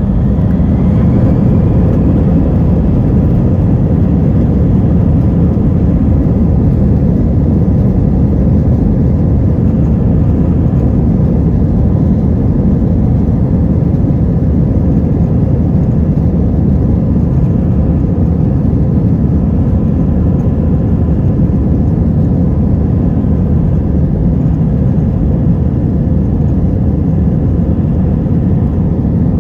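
Jet airliner cabin noise: the engines and rushing air make a loud, steady low rumble with a faint whine above it.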